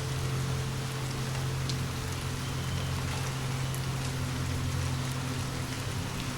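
Steady rain falling, an even hiss, with a low steady rumble underneath and a few faint scattered clicks.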